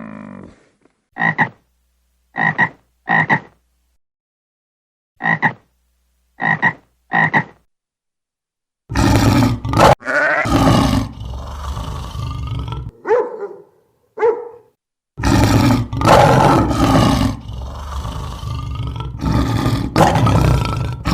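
Animal calls: two sets of three short, evenly spaced calls, then, after a pause, a run of louder, longer, rough calls that go on to the end.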